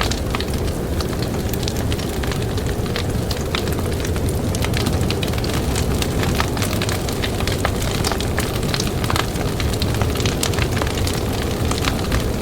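Campfire crackling, with frequent sharp snaps and pops, over a steady low rush of blizzard wind.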